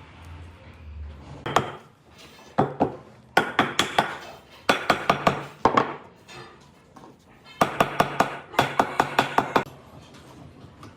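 Sharp knocks or taps: a couple of single strikes, then four quick runs of about five strikes a second, each lasting about a second.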